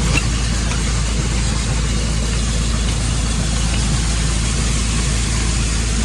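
Tractor engine running steadily at raised speed, driving a grain auger through its PTO, with the auger machinery running under it.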